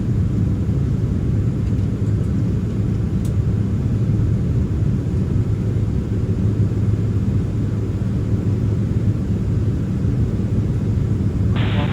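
Steady low cabin rumble of a Boeing 767-300ER holding on the ground after landing, its engines idling. A brief hiss cuts in just before the end.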